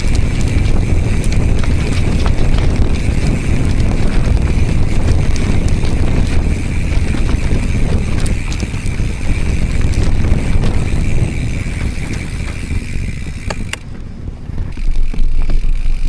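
Giant Trance X full-suspension mountain bike riding along a trail: heavy wind rumble on the microphone, with clicks and rattles from the bike over the ground and a steady high buzz that stops for about a second near the end.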